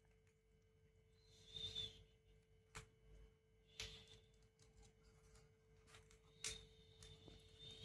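Near silence under a faint steady hum, broken by a few soft clicks and faint high whistles from a pet parrot, about a second and a half in and again near the end.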